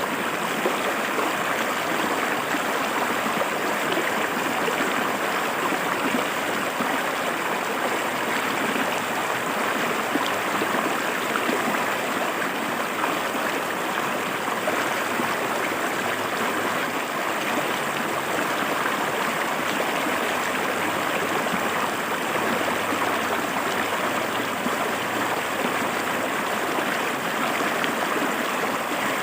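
Shallow river water flowing and splashing over rocks: a steady, even rushing with a bubbling texture that never lets up.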